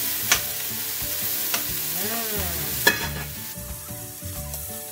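Pork, onion and tomato sizzling in hot oil in a stainless steel pot while being stirred, with two sharp metal clinks about a third of a second and three seconds in. After about three seconds the sizzle turns quieter: chicken fillets frying in a stainless pan.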